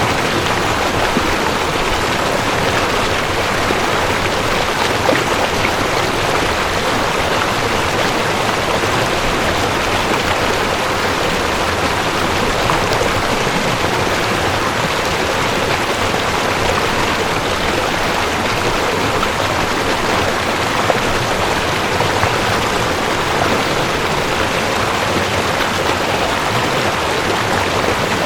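Mountain stream rushing over rocks, a steady, even water noise with no pauses.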